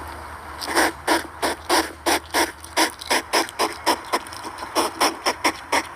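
A hedgehog making a quick run of sharp clicks, about three or four a second, starting under a second in.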